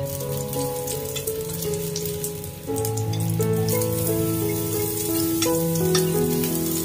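Ginger and garlic frying in hot oil in a pan: a steady sizzle with scattered crackles. Background music with held notes plays over it.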